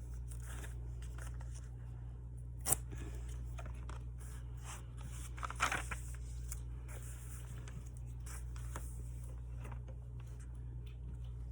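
Paper and tape being handled at a desk: small rustles and tearing, with a sharp click about two and a half seconds in and a louder crinkling rasp near the middle, over a steady low hum.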